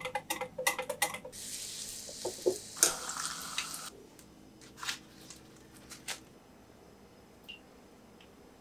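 A wire whisk beating thick gram-flour batter in a glass bowl, a quick run of clicks and squelches for about a second. Then a hiss for a couple of seconds with one sharp knock, followed by a few scattered light taps.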